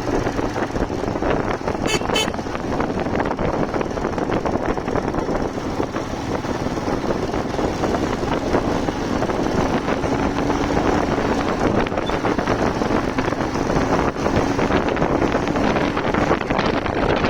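Wind rushing over the microphone on a moving motorcycle, with the engine running steadily underneath. Two short high beeps come about two seconds in.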